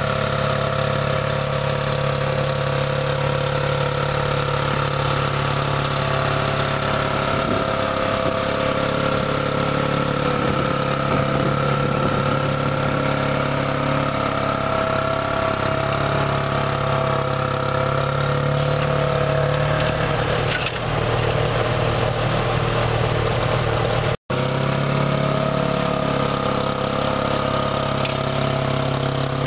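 Antique tractor engine running steadily at an even, low speed, with a brief break about three-quarters of the way through.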